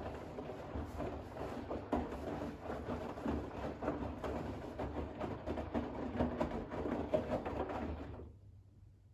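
Bosch WAX32GH1 front-loading washing machine in its final rinse: wet towels sloshing and splashing in the turning drum, stopping suddenly about eight seconds in, with a faint low hum left after.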